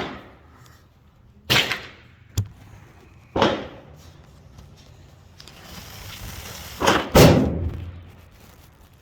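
PSA M4-clone AR-15 rifle in 5.56 firing single shots at a slow, uneven pace, about five shots with a short ring after each, the loudest near the end. A thinner, sharper crack comes between the second and third shots.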